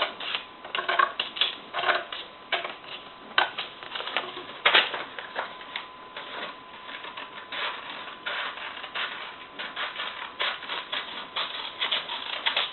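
Scissors cutting through a sheet of paper: an irregular run of quick snips and paper rustles, several a second.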